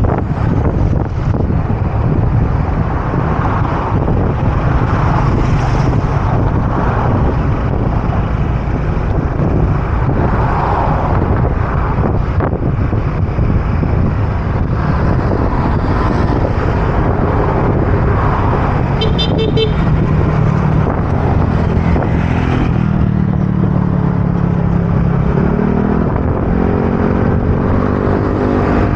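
Wind buffeting the microphone on a moving motor scooter in traffic, with a short high beeping about 19 seconds in. From about 22 seconds an engine's pitch climbs steadily as it accelerates.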